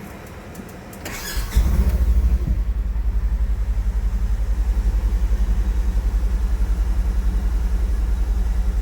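An engine starts about a second and a half in and then idles with a loud, low, even rumble.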